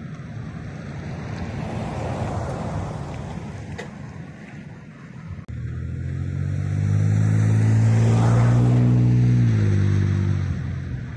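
Ford F-150's 3.5 EcoBoost twin-turbo V6 through a Flowmaster FlowFX exhaust. First it coasts past with no throttle, mostly a swelling and fading rush of tyre and wind noise. Then, after a cut about five and a half seconds in, it passes under easy throttle: a loud, steady, low exhaust drone rising slightly towards about 2,000 rpm, dropping away near the end at the shift.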